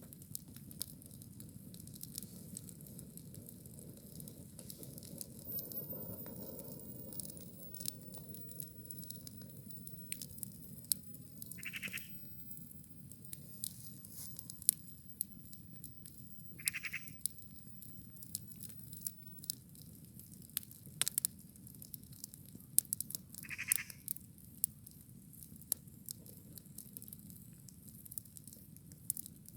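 Wood campfire burning: a steady low rush of flame with frequent sharp crackles and pops. Three short high-pitched sounds come through about 12, 17 and 24 seconds in.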